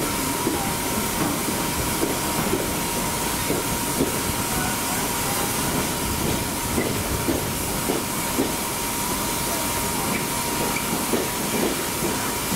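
A train at a station: a steady, loud hiss with a faint steady whine under it and scattered small knocks and clicks.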